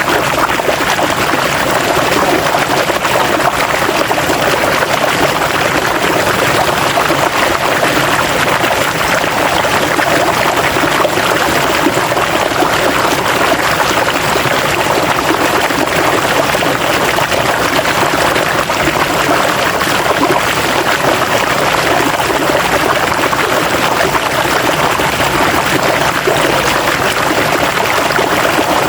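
River water flowing in a steady, unbroken rush, with a fine trickling texture.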